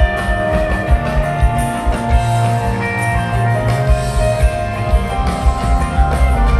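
Live rock band playing an instrumental jam: sustained electric guitar notes over bass and steady drum hits.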